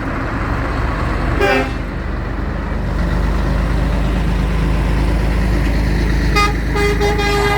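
Heavy vehicle engines running steadily in a passing parade of tractors and lorries. A vehicle horn gives a short toot about a second and a half in, and a longer horn blast starts near the end.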